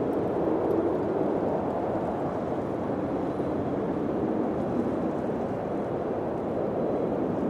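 Low, steady wind blowing, a dull rushing sound without distinct gusts.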